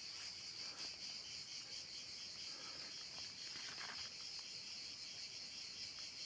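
Faint, steady, high-pitched chorus of insects chirring in the background.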